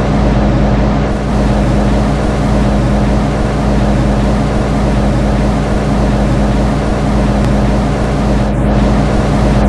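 MTR M-Train electric multiple unit heard from its front cab: a steady rumble and hiss with a constant low hum.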